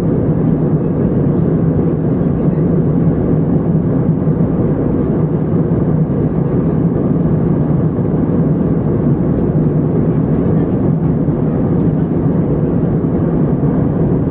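Steady in-flight cabin noise of an Airbus A320: the even rumble of engines and airflow heard from a window seat, strongest low down with a steady low hum.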